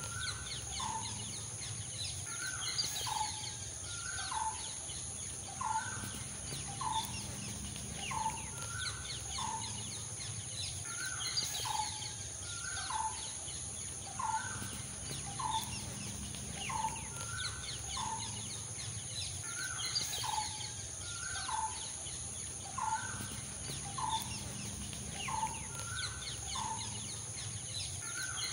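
Birds calling: a short falling note repeated over and over, about one to two times a second, with higher chirps among them.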